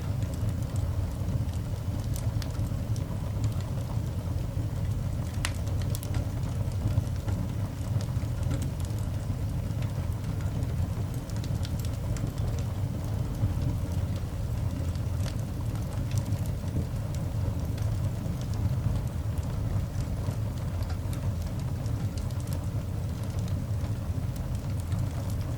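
Coal fire burning in a cast iron dog grate: faint, scattered crackles and pops over a steady low rumble, with a couple of sharper pops about six seconds in.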